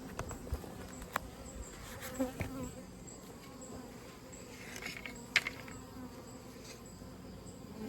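Honeybees buzzing in flight around a hive, a steady hum broken by a few short sharp clicks.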